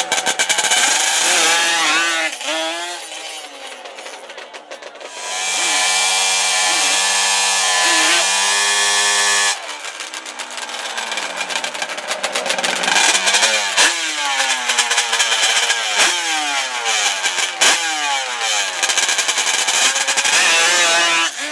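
Drag-racing ATV engines being revved. One engine is held at steady high revs for about four seconds and cuts off suddenly, then engine note sweeps up in pitch again and again, like runs up through the gears.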